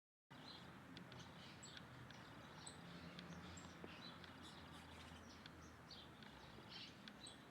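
Small birds giving faint, short, high chirps here and there over a steady low background noise, cutting in suddenly from dead silence just after the start.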